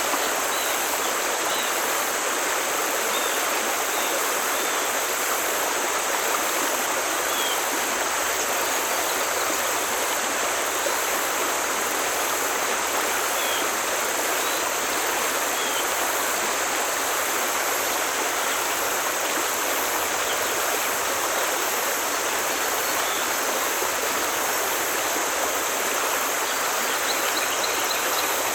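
Forest stream flowing steadily, an even, unbroken rush of water over its bed, with faint high chirps now and then above it.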